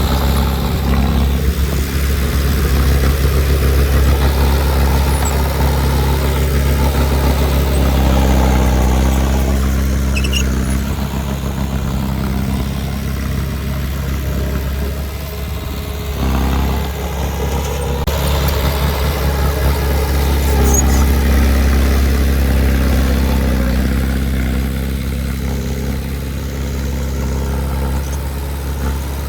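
Heavy diesel engine of earthmoving machinery running steadily, swelling and easing a little, with a brief dip about halfway.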